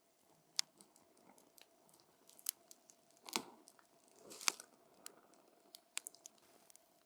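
Wood fire burning and crackling: irregular sharp pops and snaps over a faint steady hiss, with two louder cracks about three and a half and four and a half seconds in.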